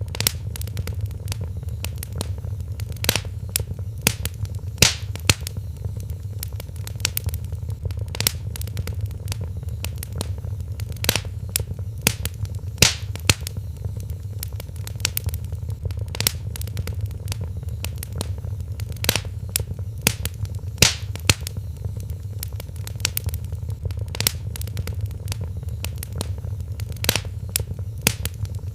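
Wood fire crackling in a fireplace: irregular sharp pops and snaps, several a second, with a few louder cracks, over a steady low rumble.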